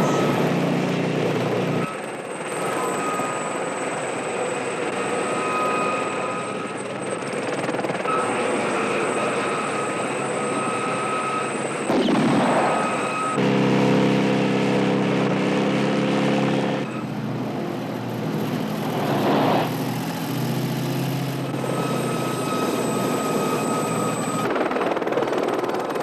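Helicopter rotor and engine running steadily, with a high turbine whine. The sound swells louder twice, as if passing close, about halfway through and again a few seconds later.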